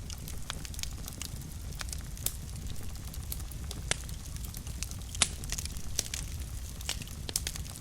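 Fire burning in a fireplace, crackling with sharp irregular pops over a low steady rumble; the loudest pop comes about five seconds in.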